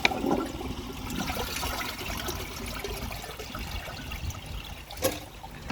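Water trickling and pouring in a steady stream, with a sharp click at the start and another about five seconds in.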